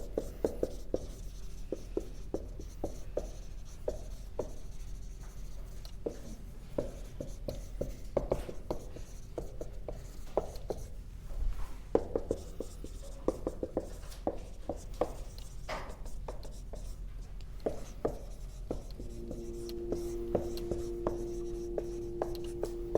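Writing by hand on a board: irregular taps and scratchy strokes of the pen or chalk as words are written out. A steady hum with several overtones comes in about four seconds before the end.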